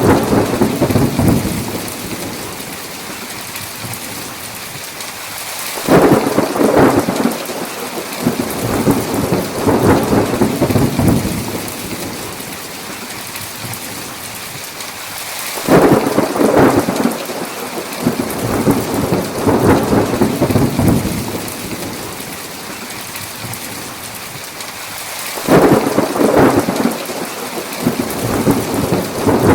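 Thunderstorm: a steady hiss of heavy rain with three claps of thunder about ten seconds apart, each starting suddenly and rumbling on for several seconds.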